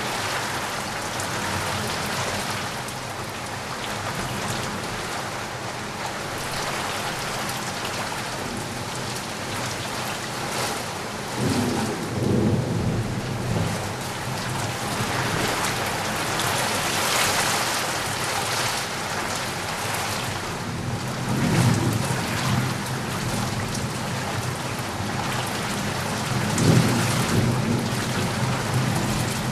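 Steady rain falling, with rolling thunder rumbling low three times: about a third of the way in, a little past the middle, and near the end.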